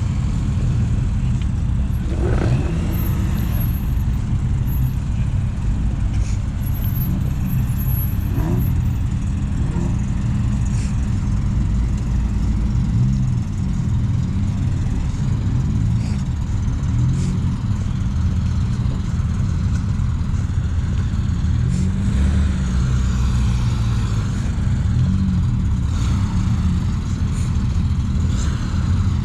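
Car engines running as cars drive off one after another, their engine notes rising and falling.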